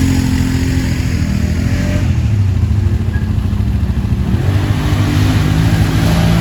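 Off-road vehicle engine running hard through mud, holding a steady pitch, then dipping about four seconds in and climbing again.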